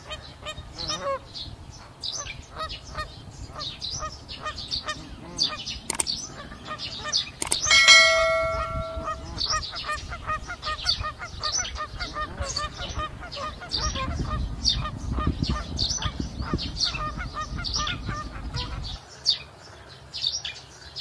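Geese honking among steady, rapid chirping of small birds, with one loud, long honk about eight seconds in. A low rumble joins from about fourteen to nineteen seconds.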